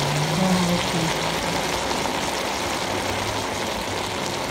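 Cabbage and minced meat stir-fry sizzling steadily in a wok, with a faint low hum underneath.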